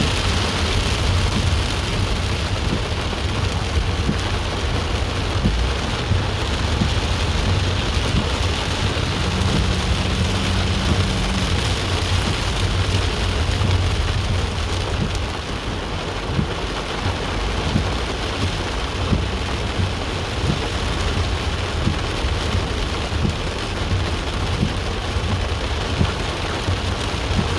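Steady heavy rain, with a low rumble under it throughout and a brief low hum about ten seconds in.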